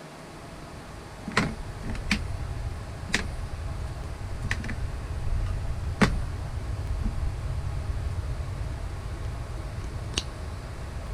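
Six sharp clicks at uneven intervals, the loudest about six seconds in, over a steady low rumble.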